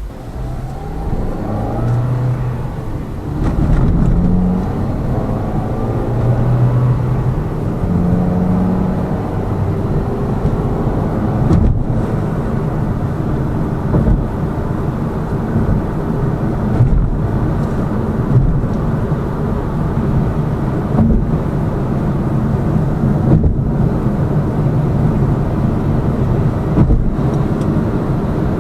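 Cabin sound of a Lada Vesta Cross with the 1.8 engine and AMT robotic gearbox driving a rough road. The engine pulls up through the gears over the first several seconds, then steady engine and tyre noise runs on with brief bumps every few seconds. There is no suspension knock, which the owner says went away after the front struts were replaced.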